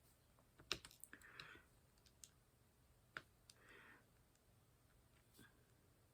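Faint scattered clicks and light taps of small hard objects, with a few short soft rustles between them.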